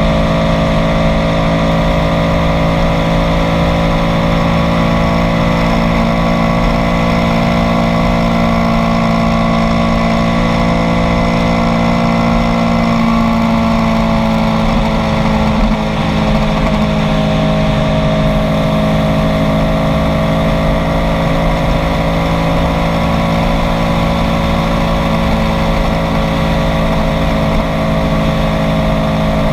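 Kawasaki Z900 inline-four engine running steadily under way, its pitch easing down a little about halfway through and then slowly rising again.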